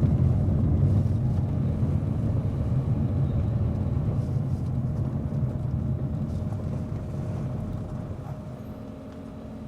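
Low rumble of a car's engine and tyres on the road, fading steadily and evenly.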